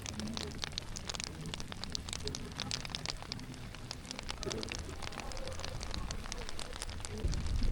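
Rain falling in heavy drops, pattering irregularly on a surface, with a low rumble coming up near the end.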